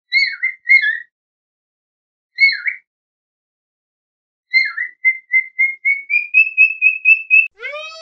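Clear whistled bird calls: a few short, bending notes, then a run of quick notes, about four a second, climbing slowly in pitch. Near the end a longer, fuller animal call starts.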